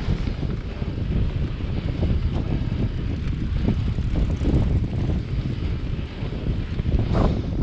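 Wind buffeting the microphone of a camera on a moving bicycle: a steady, gusty low rumble.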